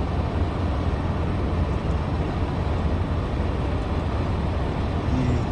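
Semi-truck's diesel engine running steadily with a low rumble.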